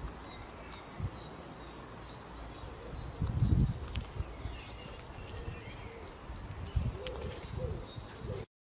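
Small songbirds chirping and twittering in the background of an outdoor recording, with a few low thumps. It cuts off abruptly near the end.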